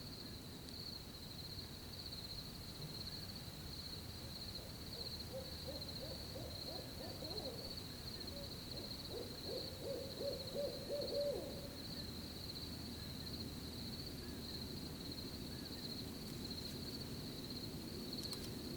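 An owl calling in runs of quick, quavering hoots from about five to eleven seconds in, over the steady chirping of crickets.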